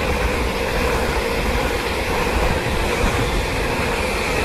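LNER Class 801 Azuma electric train passing close by without stopping: a loud, steady rush of wheels on rail and air, with a steady hum running through it.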